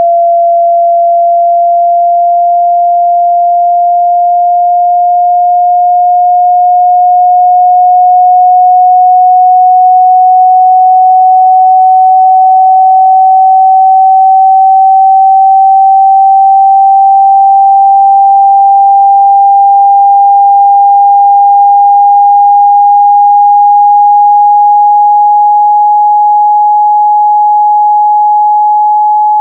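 A loud, pure sine tone for ejecting water from a phone speaker, sweeping slowly and steadily upward in pitch.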